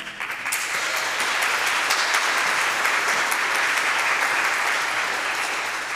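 Audience applauding at the end of a song, starting suddenly and fading out near the end.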